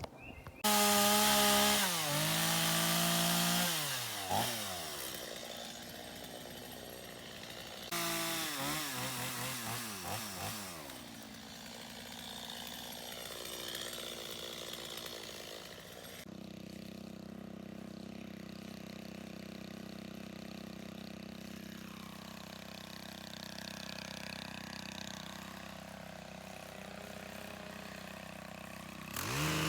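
Stihl two-stroke chainsaw running, revving up and falling back in pitch twice as it cuts through branches, then running more steadily at a lower speed from about halfway through.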